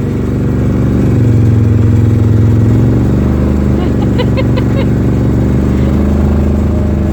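Engine of a vehicle running steadily while towing a sled through snow, growing louder about a second in, then holding. A brief burst of short high-pitched notes comes about four seconds in.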